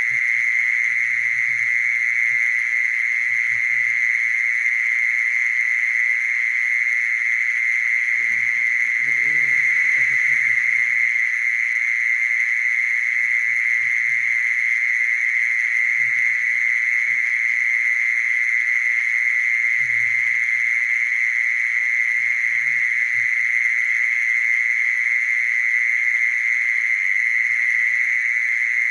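Mole cricket singing: a continuous, steady, high trill that never breaks, with faint low sounds coming and going underneath.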